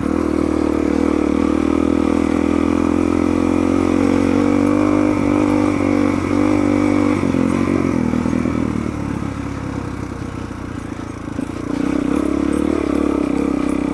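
Suzuki DR-Z400's single-cylinder four-stroke engine running under way at steady revs. About seven seconds in it drops off and runs quieter for a few seconds, then pulls harder again near the end.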